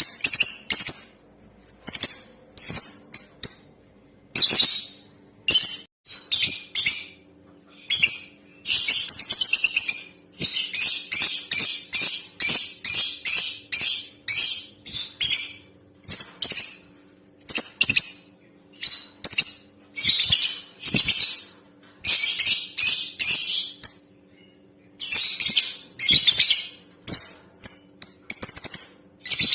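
Female lovebird calling in repeated shrill chirping bursts, with longer runs of fast, clicky chatter about 9 to 14 seconds in and again near 22 to 24 seconds. A faint steady hum sits underneath.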